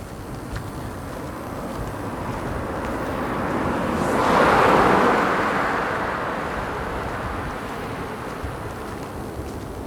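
A car driving past: its tyre and engine noise swells as it approaches, is loudest about halfway through, then fades away.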